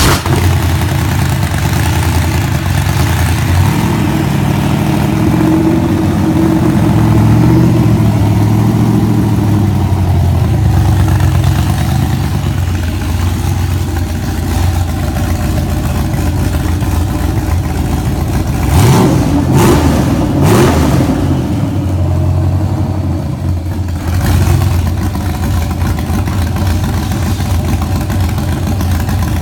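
Chevrolet 6.0 L LQ9-based V8 with L92 heads, stage 2 cam and Holley high-rise intake, running just after start-up and not yet dyno tuned: a fast idle that settles lower, then two quick revs that rise and fall about two-thirds of the way through before it drops back to idle.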